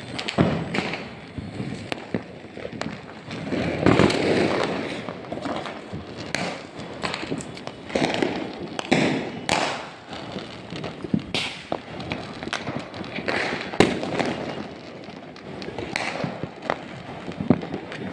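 Fireworks and firecrackers going off: many sharp cracks and bangs at irregular intervals, with a louder burst about four seconds in and another just before fourteen seconds.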